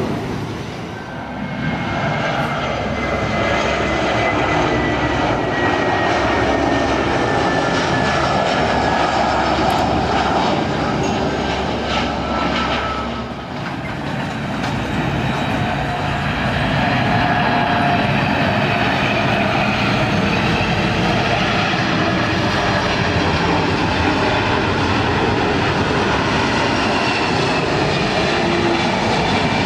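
Boeing 747-400 freighter's jet engines, heard close on its landing approach: a loud, steady rumble with a whine that glides down in pitch over the first dozen seconds.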